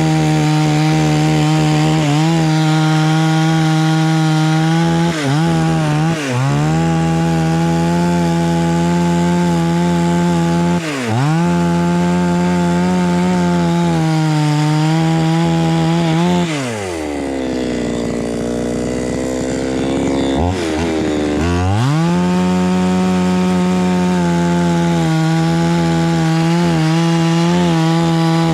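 Chainsaw at full throttle cutting through a jackfruit trunk, its pitch dipping briefly a few times as the bar bites. About two-thirds of the way through it drops back to a low idle for a few seconds, then revs up again and carries on cutting.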